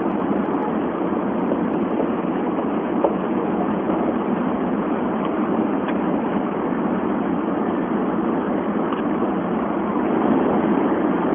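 Steady running noise of a Tokaido Shinkansen bullet train at speed, heard from inside the passenger cabin, with a single short tick about three seconds in.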